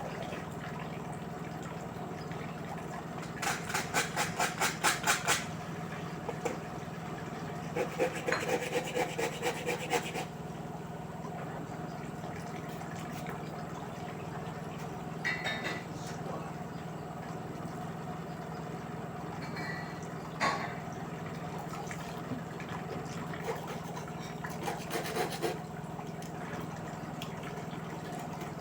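LG direct-drive washing machine running a wash: a steady motor hum under the drum turning the load in water. Twice, a rapid run of swishing and rubbing strokes comes as the drum tumbles the wet laundry, and a few single knocks follow later.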